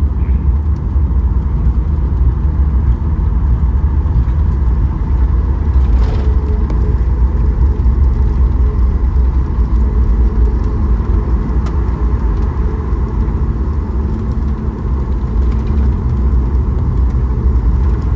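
Steady cabin noise inside a Boeing 737 MAX 8 airliner: a deep, even rumble with a faint engine hum.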